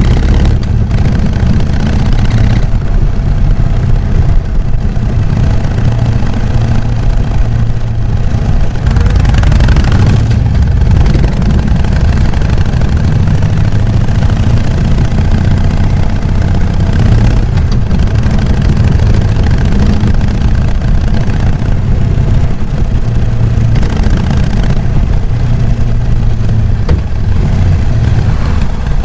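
Harley-Davidson Sportster XL883N Iron's air-cooled V-twin running steadily through its stock exhaust, a low engine sound with stretches of hiss above it.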